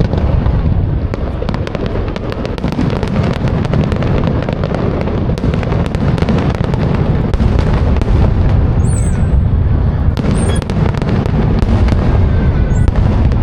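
Fireworks display: a continuous barrage of booming bursts with dense crackling throughout.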